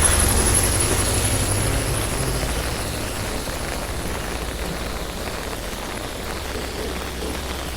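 A motor vehicle's engine rumble fades away over the first few seconds as it passes and moves off. Steady rain continues underneath.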